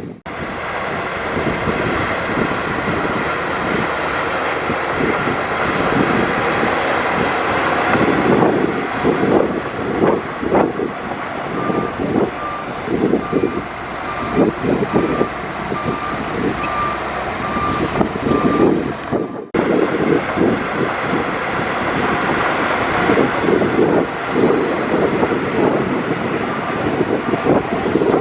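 Heavy earthmoving machinery at work: diesel engines running under load with repeated clanks and knocks. A reversing alarm beeps at a steady pace for several seconds in the middle.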